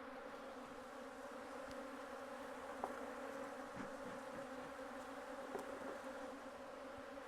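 Honeybees from an opened hive buzzing as a steady, faint hum, with a few small clicks about three, four and five and a half seconds in.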